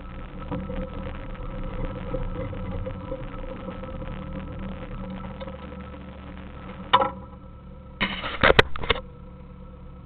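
Suzuki Samurai engine running at low speed on a dirt trail. A sharp bang about seven seconds in and a burst of loud knocks and rattles about a second later stand out above the engine.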